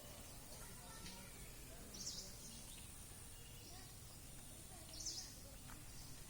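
A bird giving two short high calls, about three seconds apart, over faint outdoor background noise.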